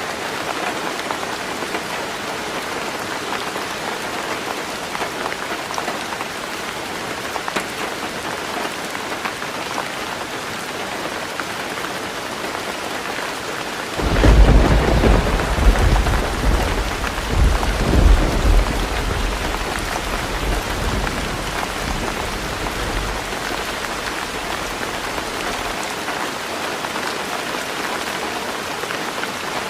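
Heavy rain drumming steadily on a tin roof. About halfway through, a thunderclap breaks in with a sudden loud, deep rumble that swells again a few seconds later and then dies away under the rain.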